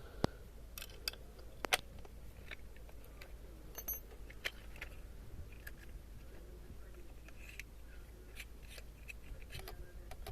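Scattered light clicks and taps of small hard objects being handled, a few sharper ones in the first two seconds, over a steady low hum.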